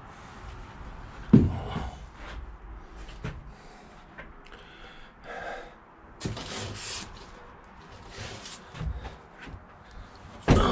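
Scattered clunks, knocks and rattles of someone handling parts inside an old truck cab, the loudest thump about a second and a half in, with rustling between.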